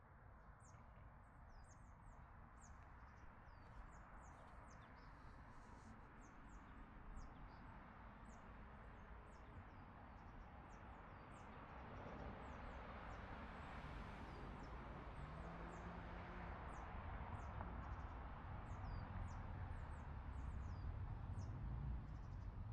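Faint high, thin bird calls: many short downslurred chirps repeated irregularly throughout. Under them is a low rumbling noise that grows louder in the second half.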